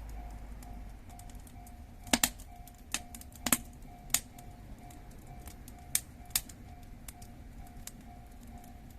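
Wood fire in a Moroccan chimney fire pit crackling, with sharp irregular pops clustered a couple of seconds in and a few more later on.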